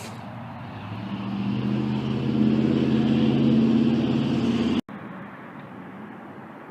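A road vehicle's engine grows steadily louder as it approaches and runs close by, then the sound cuts off abruptly about five seconds in, leaving a steady, quieter background hiss.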